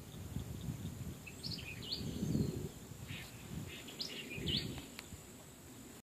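Unidentified wild birds calling from the trees: two bursts of short chirps and quick down-slurred notes, the first about a second and a half in, the second about three seconds in. A low rumbling noise and a thin steady high tone run underneath.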